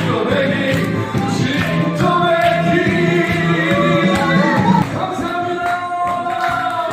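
A man singing a Korean trot song live over loud accompaniment with a steady beat, the beat dropping out about five seconds in while he holds long notes.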